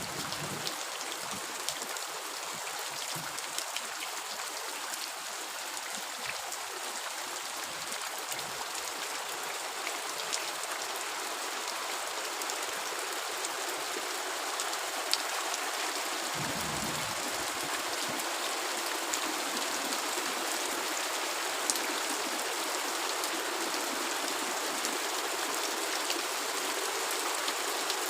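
Heavy rain falling steadily: a dense, even hiss with scattered sharper drop ticks, slowly growing a little louder.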